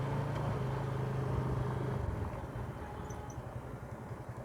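A motor vehicle's engine running close by with a steady low hum, fading and turning uneven after about two seconds as it pulls away.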